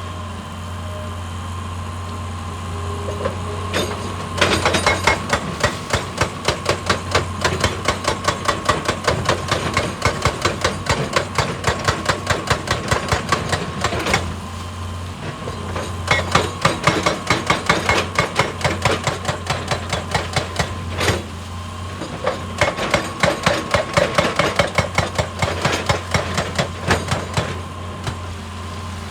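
Excavator-mounted hydraulic rock breaker hammering rock in rapid, even blows, several a second. It runs in three long bursts with short pauses between, over the excavator's steady engine hum.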